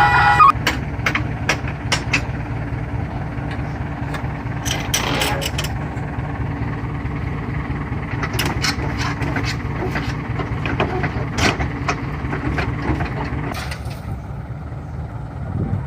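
Truck diesel engine running steadily, with scattered knocks and clicks. The reversing beeper cuts off about half a second in.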